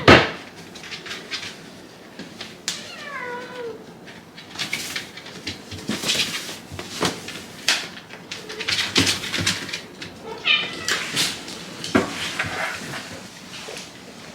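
Shiba Inu whining and grumbling in short, arched, yowl-like calls, impatient at being kept waiting: a loud one right at the start, a falling one about three seconds in, and a few more around ten seconds in. Short scraping and clicking noises come between the calls.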